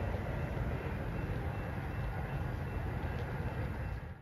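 Steady low rumble of an approaching Metrolink train, with a faint thin steady high tone over it; it cuts off suddenly at the very end.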